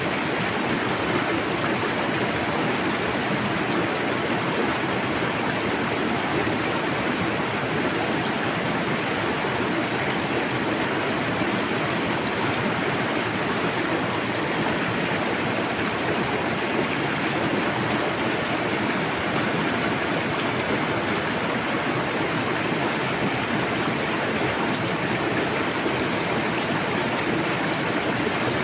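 Forest river rushing steadily, a continuous even wash of flowing water.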